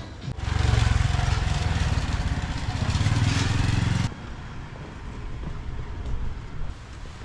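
A motorbike engine running close by, loud for about three and a half seconds, then cut off abruptly, leaving a quieter outdoor background.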